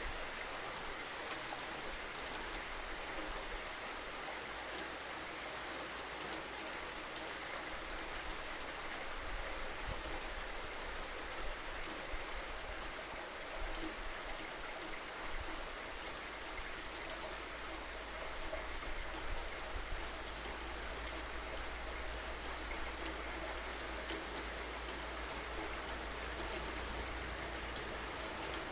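Steady rain falling, an even hiss with scattered louder drops, over a low steady rumble.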